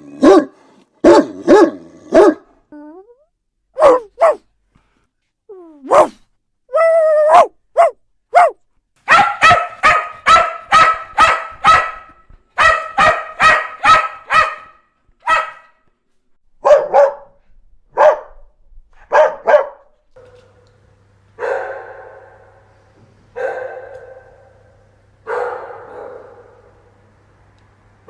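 Dogs barking in several separate recordings one after another. Single sharp barks come first, then a fast run of about two barks a second from about 9 to 15 seconds. From about 20 seconds there are slower, echoing barks roughly every two seconds over a faint low hum.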